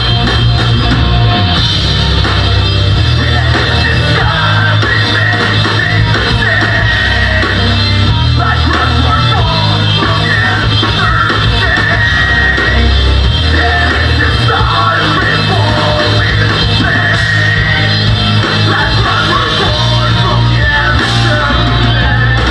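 Live metalcore band playing loud: distorted electric guitars, bass and drums, with screamed vocals.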